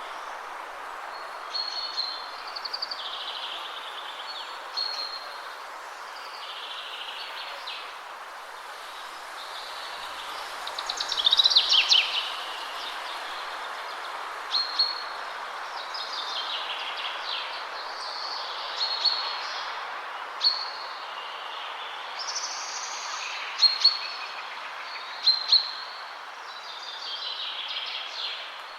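Birds singing and calling over a steady rush of wind in the trees. Short chirps and trills come every second or two, and a loud rapid trill about eleven seconds in is the loudest call.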